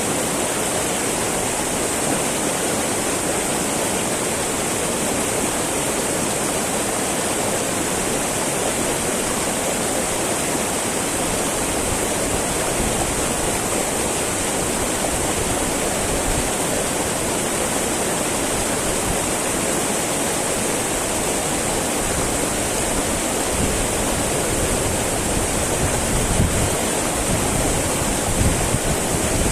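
Small mountain stream babbling steadily over its bed, a constant even rush of water. A few low rumbles come in near the end.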